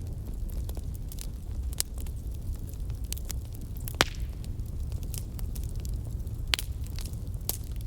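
Fire crackling: irregular sharp pops and snaps over a steady low rumble, with the loudest pop about four seconds in.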